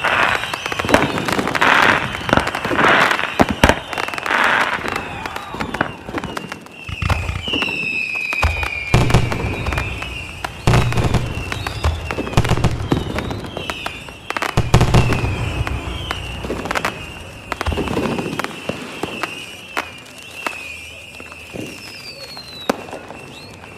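Fireworks going off in a dense run of bangs, pops and crackles, with whistling shells, one loud falling whistle about a third of the way in and a rising one near the end. Deeper booms stand out at two points in the middle.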